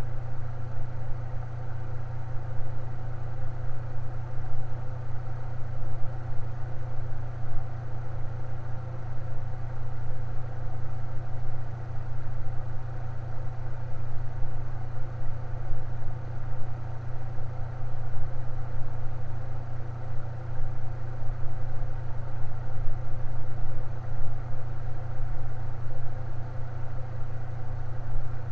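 Fan running steadily: a low, even hum with a fainter whir of steady tones above it, unchanging in speed.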